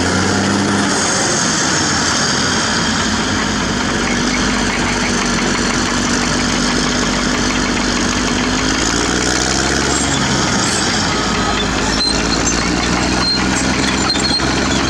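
CAT D6R bulldozer's diesel engine running loud, its pitch shifting as the revs change near the start and again around the middle, with a few sharp clanks near the end.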